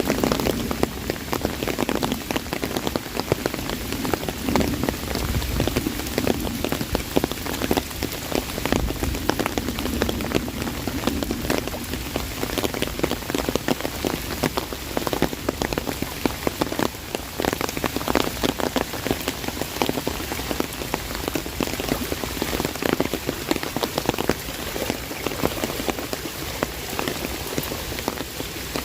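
Heavy rain drumming on an umbrella overhead, a dense, steady patter of drops striking the canopy over the rush of rain falling all around.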